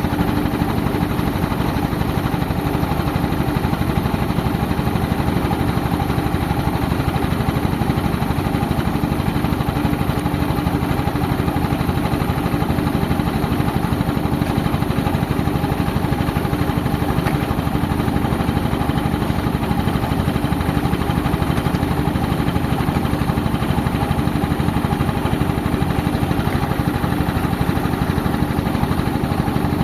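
Tractor engine driving an air compressor, running steadily without a break.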